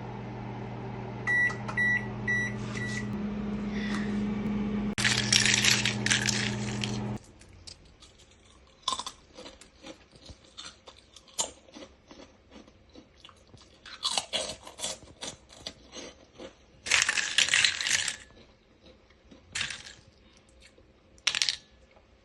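Microwave oven running with a steady hum and four short beeps, the hum stopping about seven seconds in. Then comes scattered crunching and crackling of crisp puffed kerupuk crackers, with several louder bursts.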